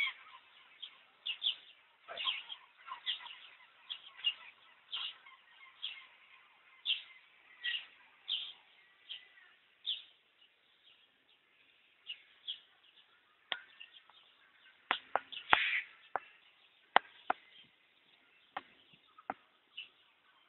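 Birds chirping in short, repeated calls, one or two a second, thinning out after about ten seconds. In the second half, a string of sharp clicks or taps, the loudest sounds here.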